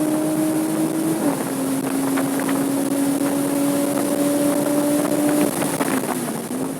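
Porsche Cayman S 3.4-litre flat-six engine running hard under load at speed, with wind noise; its note dips briefly about a second in, then climbs steadily before falling and wavering near the end.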